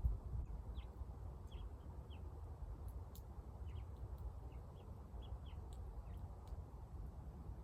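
Small birds chirping, with many short, high chirps scattered all through, over a steady low rumble.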